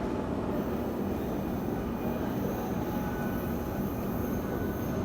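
Taipei Metro C321 subway train running out of the station: a steady rumble of wheels and motors on the track, with a faint high whine joining about half a second in.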